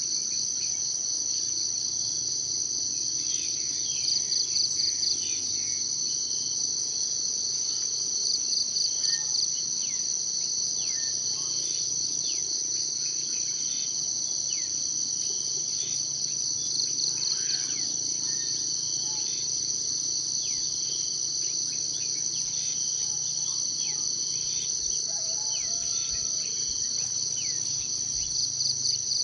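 Steady, high-pitched insect chorus. A louder pulsing trill rises out of it four times, with faint short bird chirps underneath.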